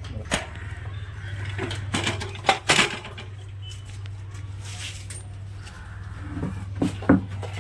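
Metal tools and engine parts clinking and knocking against each other a few times during motorcycle engine repair work, over a steady low hum.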